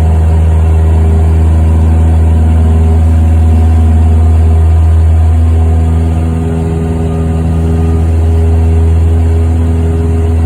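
Cessna 172's piston engine and propeller running steadily at high power, a loud continuous drone with a brief slight dip in level about six seconds in.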